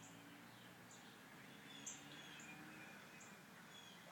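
Near silence: faint room tone with a low hum, and a few short, high chirps of small birds.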